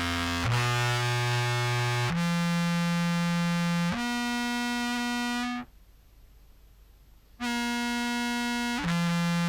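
Contrabass clarinet played through a fuzz pedal: a run of held, heavily distorted notes, each lasting one to two seconds and stepping between pitches, with a sudden cut-off to near silence for almost two seconds midway before the notes resume.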